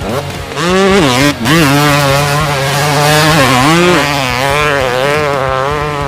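Dirt bike engine revving up about half a second in, revving again near four seconds, then running steadily.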